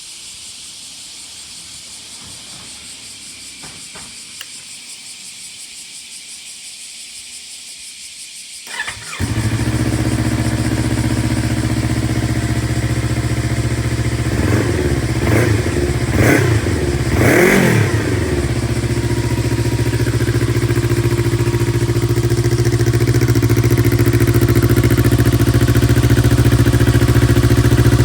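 Yamaha MT-25's 249 cc parallel-twin engine, through an IXIL full-system aftermarket exhaust. After several seconds of steady hiss and a couple of clicks, the engine starts up about nine seconds in and settles to an even idle. It is given a few short throttle blips a few seconds later, then idles steadily, slowly getting a little louder.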